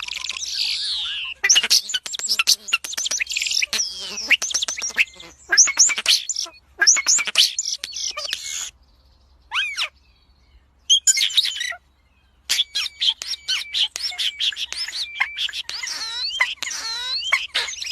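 Birds calling: a rapid, busy string of chirps and squawks sweeping up and down in pitch. The calls break off for a few seconds about halfway through, with only a couple of short calls in the gap, then resume.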